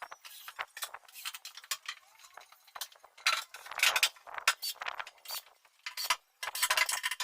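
Irregular clicks, clinks and short scrapes of carpentry tools and small metal hardware being handled, with busier clatter about halfway through and again near the end.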